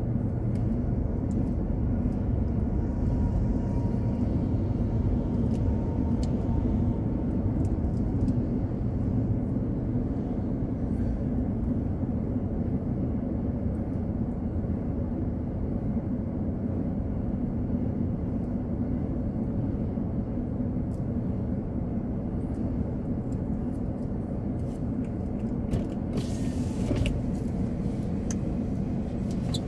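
Freight train rolling past steadily, its sound mostly low; near the end a brief hiss cuts in.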